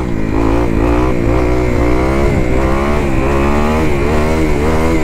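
2021 Kawasaki KX250 dirt bike's single-cylinder four-stroke engine running, the revs rising and falling a little from moment to moment.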